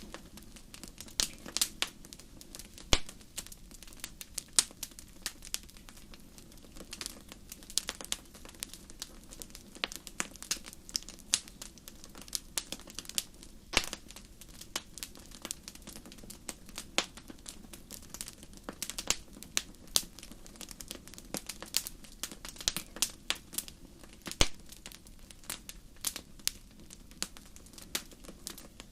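Wood fire crackling in a fireplace: irregular sharp pops and snaps of varying loudness over a low steady hiss, with a few louder pops.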